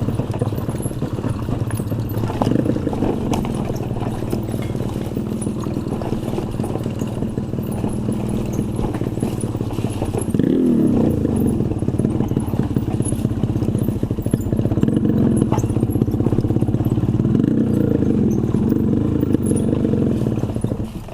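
Two-stroke motorcycle engines running, revved up about ten seconds in and again near the end.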